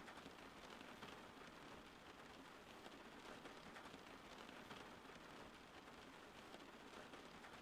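Steady rain falling, faint, an even hiss flecked with many small drop impacts.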